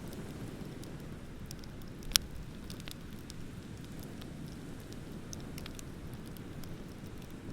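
Wood bonfire crackling, with scattered small clicks and one sharp, loud pop about two seconds in, over a steady low rumble.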